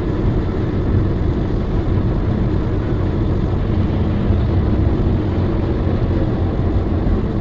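Steady, loud rumble of a moving vehicle: road and engine noise with no impact.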